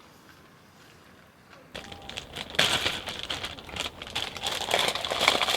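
Plastic packaging crinkling and rustling as it is handled, starting after the first couple of seconds of quiet and going on as a dense, irregular crackle.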